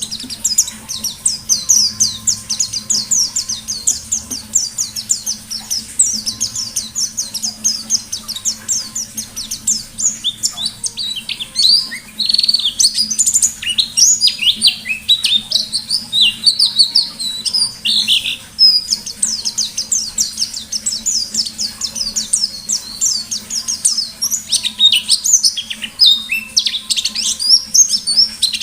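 A white-eye (pleci) singing a long, rapid, almost unbroken run of high chirps and trills, the fast 'ngalas nembak' song style that bird keepers prize.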